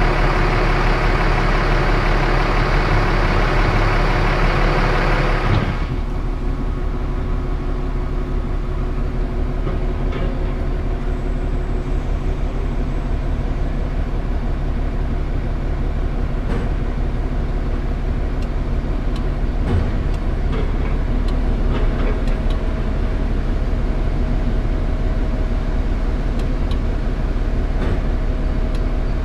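Scania R410 truck's inline-six diesel running steadily. A louder rushing noise over it cuts off suddenly about six seconds in, leaving the engine hum with a few faint ticks.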